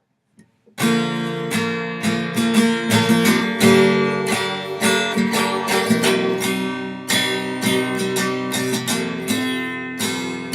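Acoustic guitar strummed in a steady rhythm of ringing chords, the instrumental intro to a song; it starts about a second in.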